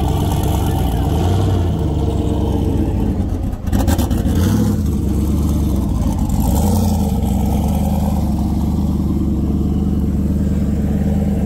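Fox-body Ford Mustang's V8 engine running loud and steady, with a couple of brief rises in revs a few seconds in.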